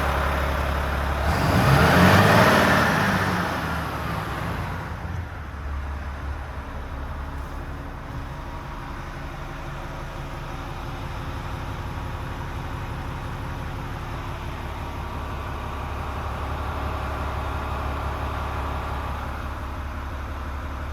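Volvo FM 450 truck's 13-litre six-cylinder diesel engine idling, blipped once about two seconds in, its pitch rising and falling back, then settling to a steady idle.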